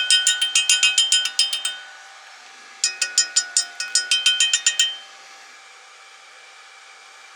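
Rapid metal-on-metal tapping, about six ringing strikes a second, in two runs with a short pause between them near the two-second mark. Then a faint steady hiss.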